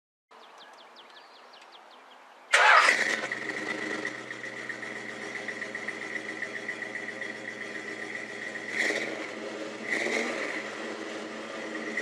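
Car engine cranking over on the starter for about two seconds, then catching with a loud burst and settling into a steady idle, given two brief blips of throttle near the end.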